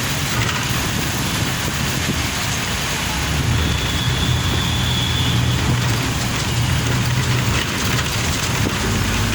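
A car driving in heavy rain: a steady rush of rain and wet-road noise over a low engine hum, with a faint high tone for a couple of seconds in the middle.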